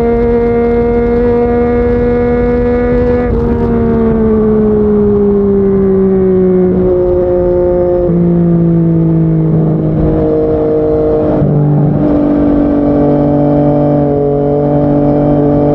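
Yamaha MT-09's inline three-cylinder engine through a Yoshimura R55 slip-on exhaust, heard while riding. The engine note holds steady for about three seconds, then drops in several steps to a lower steady note.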